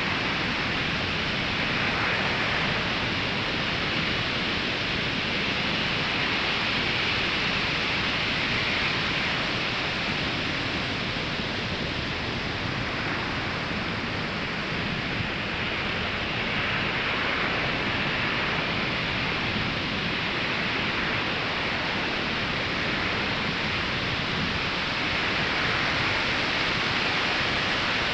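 Ocean surf breaking on a sandy beach: a continuous wash of waves, swelling and easing every several seconds.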